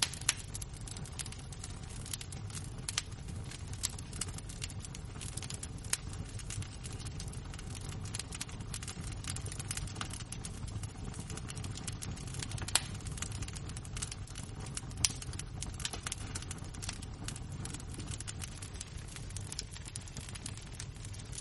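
Burning embers and flames crackling: a dense stream of small snaps and pops over a steady low rumble, with a few louder pops near the start and twice a little past the middle.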